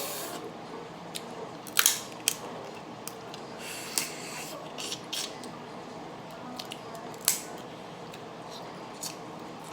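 Close-up eating sounds as seafood is handled and eaten by hand: a scatter of sharp clicks and cracks, the loudest a little under 2 seconds in and again about 7 seconds in.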